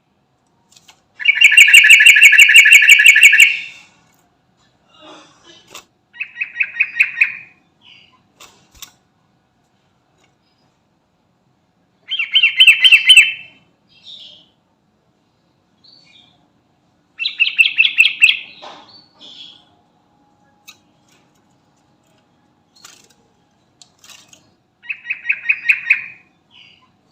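Sooty-headed bulbul (trucukan) singing: five loud phrases of rapid repeated notes, each one to two seconds long, coming several seconds apart.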